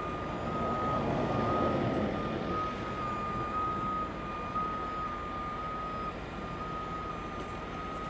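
Truck backup alarm beeping in a steady series over a heavy diesel truck engine running. The engine rises briefly about a second in.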